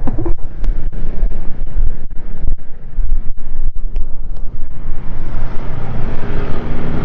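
Loud low rumble of wind buffeting the microphone over the running of a vehicle, with brief dropouts in the sound.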